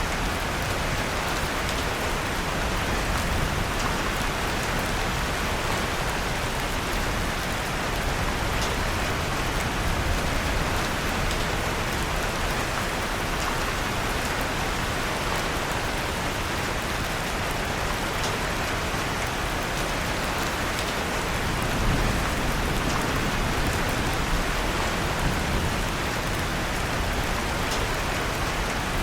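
Steady rain falling, with faint scattered crackles of a wood fire in a fireplace.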